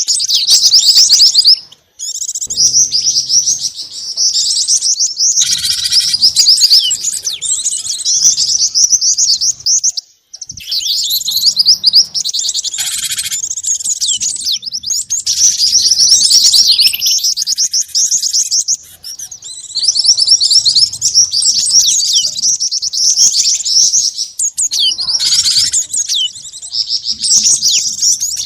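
Bird-lure recording of small songbirds, a mix of cinereous tit (gelatik batu), jingjing batu and mantenan calls: dense, rapid, high-pitched chirps and trills that run on in long phrases with brief breaks.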